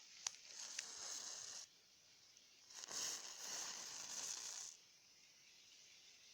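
Matches flaring up with a hiss, twice: a sharp strike about a quarter-second in followed by over a second of hissing, then a second, longer hiss starting with a few crackles near three seconds in.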